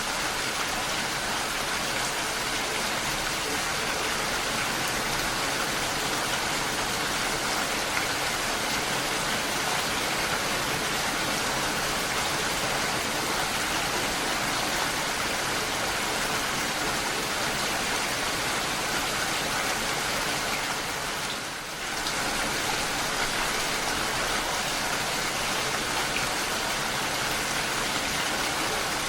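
Steady, heavy rain falling, a dense, even hiss of countless drops. The rain briefly drops in level about two-thirds of the way through.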